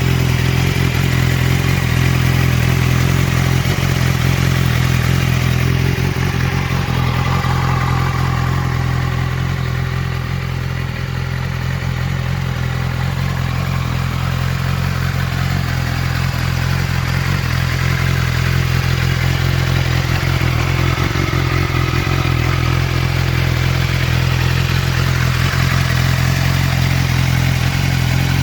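Motorcycle engine running steadily, dipping slightly about ten seconds in.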